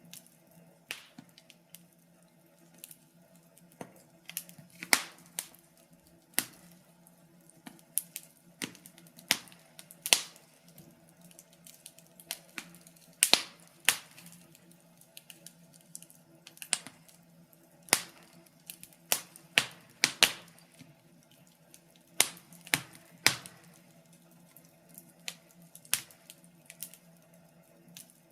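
Wood fire crackling: irregular sharp pops and snaps, some louder than others, over a faint steady hum.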